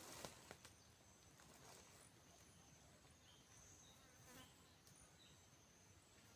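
Near silence, with faint insects buzzing steadily and high-pitched, and a few faint clicks or rustles at the start.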